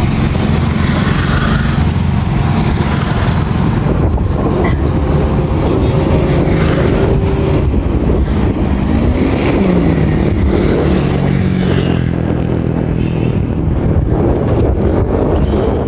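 Motor vehicle engine running with road noise, its pitch dipping and rising partway through as it changes speed.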